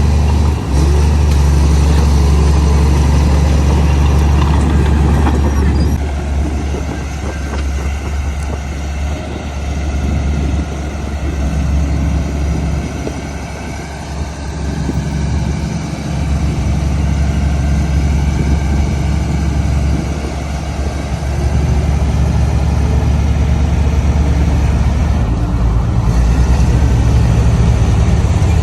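Heavy diesel engine of earth-moving machinery running steadily with a deep, even hum. It eases off about six seconds in, is lowest near the middle, and comes back up to full volume a few seconds past the two-thirds mark.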